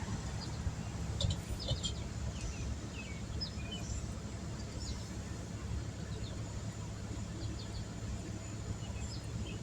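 Scattered short bird chirps over a steady low outdoor rumble.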